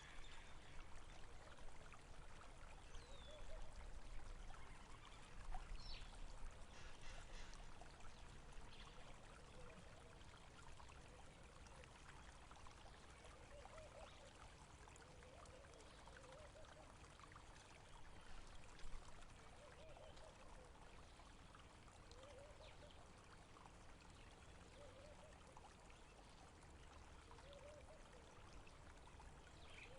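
Faint running water, a small stream trickling and gurgling steadily, with a few short high chirps in the first several seconds.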